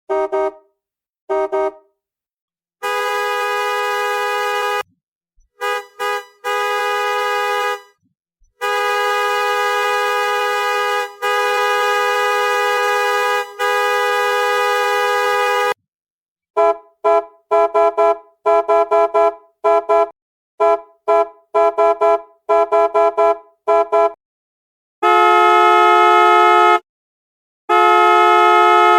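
Car horns honking: two short toots, then several long steady blasts of a few seconds each, then a quick run of about fifteen short beeps, roughly two a second, ending with two long blasts.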